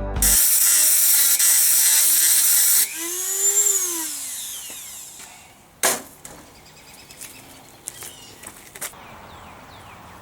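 Dremel 3000 rotary tool grinding aluminum welds: a loud hissing grind over the motor's whine for about three seconds. The grinding then stops and the motor's pitch rises and falls away as it winds down, followed by a single sharp knock about six seconds in.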